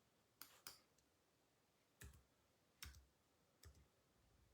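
Five faint clicks at a computer, spaced unevenly about a second apart, in near silence.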